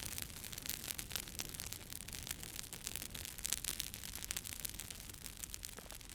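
Wood campfire burning, crackling with many small sharp pops over a steady hiss.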